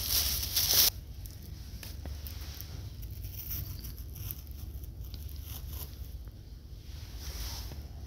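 Rustling handling noise close to the microphone, loud in the first second and then cutting off, followed by faint brushing sounds over a low steady hum.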